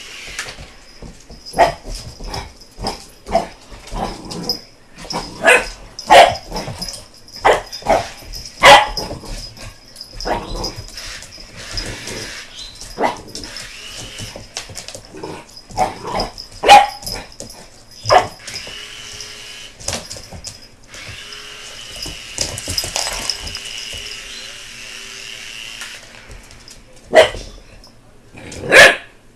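American bulldog puppy barking repeatedly in short, sharp, irregular barks, over a steady high-pitched whine.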